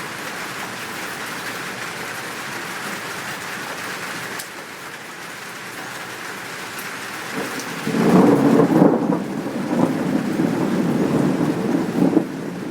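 Steady rain falling, joined about eight seconds in by a loud thunderclap that rolls on as a pulsing rumble.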